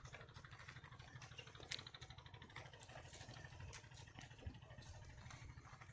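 Near silence: a faint, steady low hum with a few faint scattered ticks.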